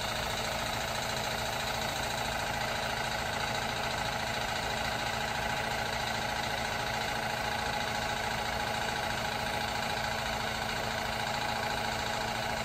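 Industrial Gold LH1/LH2 series air compressor pump running steadily with a silencer fitted, a fast, even mechanical chugging.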